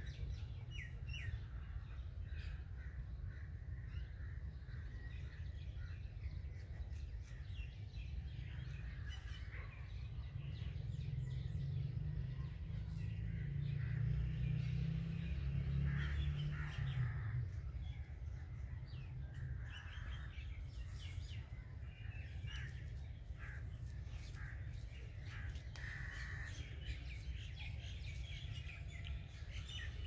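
Birds calling in scattered short calls throughout, over a steady low rumble on the microphone that swells in the middle.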